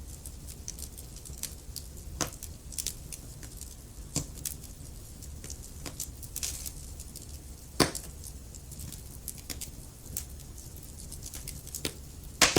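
Wood fire crackling in a fireplace: irregular sharp pops and snaps over a low steady rumble, with two louder pops, one about eight seconds in and one near the end.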